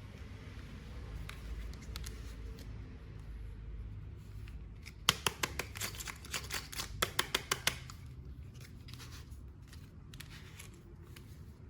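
Scissors cutting toy packaging: a quick run of about fifteen sharp snips and clicks near the middle, over a low steady room hum.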